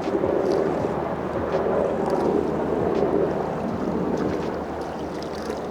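Steady rushing noise of flowing creek water.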